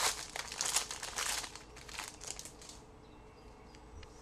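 Plastic wrapper of a trading card pack crinkling as the pack is torn open and handled, for about the first two and a half seconds, then only faint small clicks.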